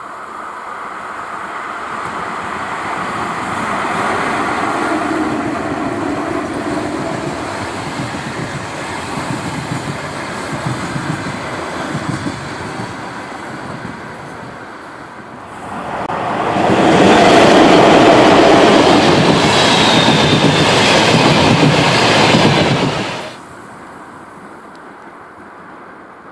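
ChS8 twin-section electric locomotive and its train of passenger coaches running past, the wheels clattering over the rail joints. The sound grows much louder for several seconds about two-thirds of the way in, with a brief high wheel squeal, then drops off suddenly near the end.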